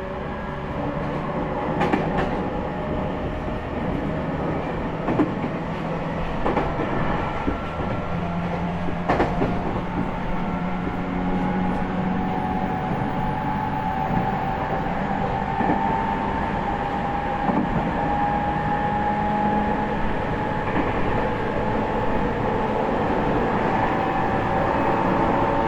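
Interior running sound of an E501-series electric train's motor car: rumble from the wheels and rails, the Toshiba IGBT inverter and the traction motors. Their tones rise slowly as the train gathers speed. Sharp clicks come as the wheels cross rail joints.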